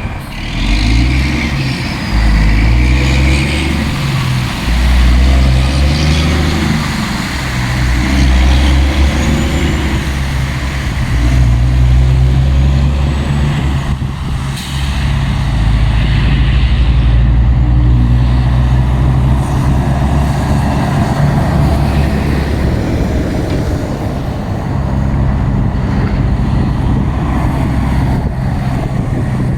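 Heavy diesel dump truck engine pulling away and accelerating. Its pitch climbs and drops back several times as it shifts up through the gears, then settles into a steady run. There is a short hiss about halfway through.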